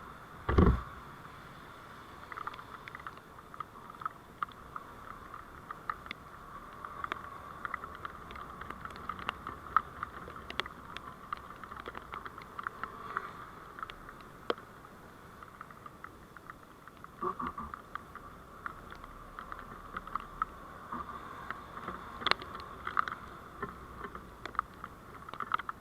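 A vehicle's steady road noise, with many small scattered clicks and rattles and one sharp low knock about half a second in.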